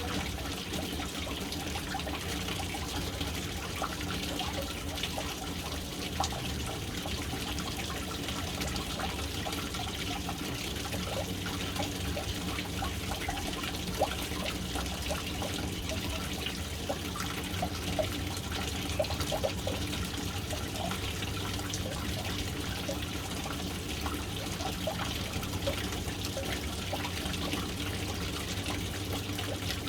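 Water falling and trickling into a household water tank, a steady splashing with small scattered drips and plops.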